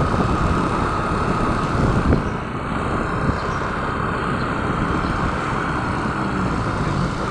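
Motorcycle running at riding speed, a steady engine and road rumble.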